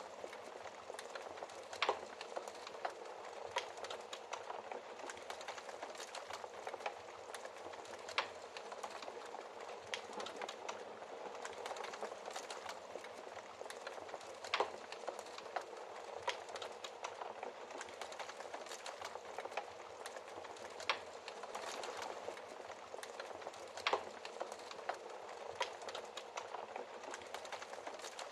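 Wood fire burning in a fireplace: a steady soft crackle and hiss, with sharp pops every few seconds.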